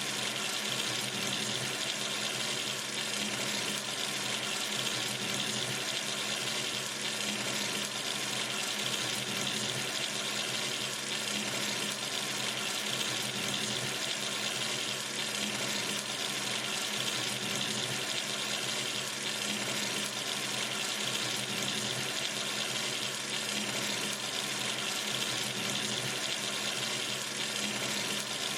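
Sink tap running steadily, water falling into the basin in an even, unbroken rush.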